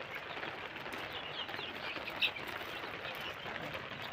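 A flock of desi chickens calling: many short, overlapping chirps and peeps, with one louder call about two seconds in.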